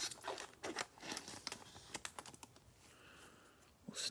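Football trading cards from a freshly torn pack being handled and slid against each other: a quick run of light clicks and flicks that thins out about halfway through.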